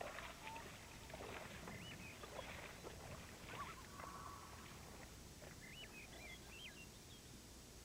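Faint outdoor ambience with birds calling in short, scattered chirps and whistles, plus some brief rustling or splashing noise in the first few seconds.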